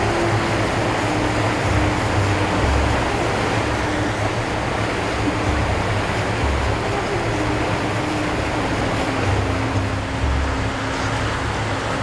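Steady rushing of wind and water from a moving ferry, with low, irregular buffeting of wind on the microphone and a faint wavering tone underneath.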